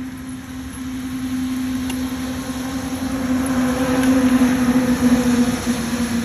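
A vehicle's motor running with a steady hum that grows louder, its pitch dipping slightly near the end.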